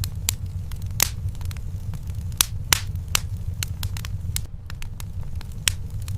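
Wood fire crackling in a fireplace: irregular sharp pops and snaps over a steady low rumble, with a few louder pops, the first about a second in.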